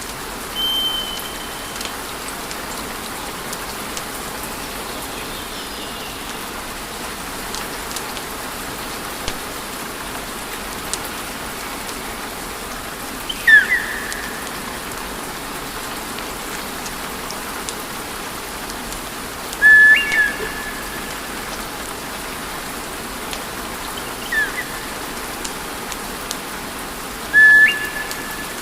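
Wood fire burning in a fireplace, hissing steadily with scattered small crackles and pops. Five short high whistles break through and are the loudest sounds; some begin with a quick downward slide.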